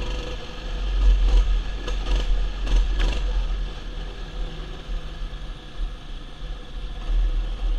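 Mini bike's small engine running during a ride, over a heavy low rumble, with a few short knocks or rattles in the first three seconds.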